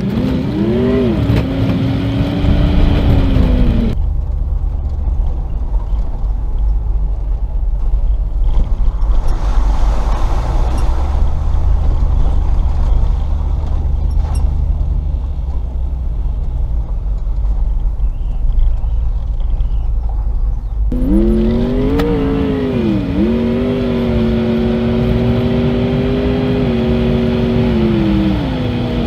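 Range Rover P38's 4.0 V8 engine running under way, its pitch rising and falling with the throttle. For a long middle stretch the engine tone drops out under a deep steady rumble, and it comes back near the end.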